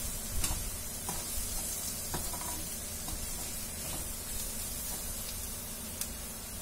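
Chopped onions and spices frying in a kadai, with a steady sizzle, while a metal spatula stirs them, scraping and clicking against the pan now and then.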